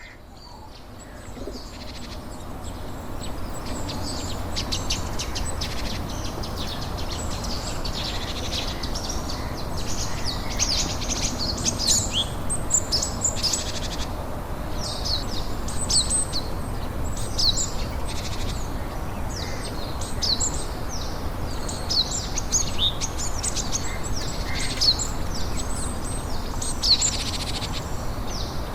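Small birds chirping, many short high chirps coming thick and fast, over a steady low background noise; the sound fades in over the first few seconds.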